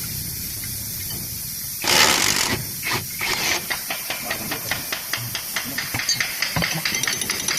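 A short, loud burst of compressed air hissing about two seconds in, then a run of quick, even clicks, about five a second.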